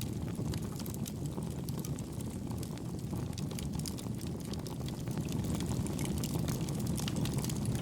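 Wood campfire crackling, with many small sharp pops scattered throughout, over a steady low rush of wind and gentle waves that grows a little louder about five seconds in.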